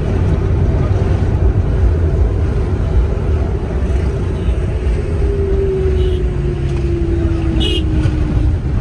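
Steady road-traffic rumble. Over the last few seconds a passing vehicle's engine note falls gently in pitch, and a brief high chirp comes near the end.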